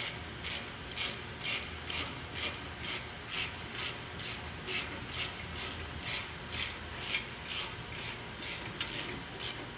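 Hand tool work in a steady rhythm: short scraping or ratcheting strokes, about two a second.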